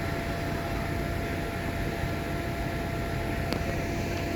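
Steady rumble and hiss of a train running, with a faint steady whine and no change in pace.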